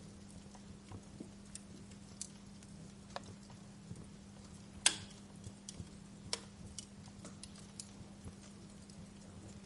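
Wood fire crackling in a fireplace: irregular sharp pops and snaps, the loudest about five seconds in, over a faint steady low hum.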